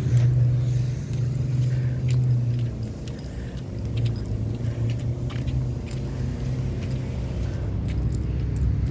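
A car engine running with a steady low hum, with a few faint light clicks over it.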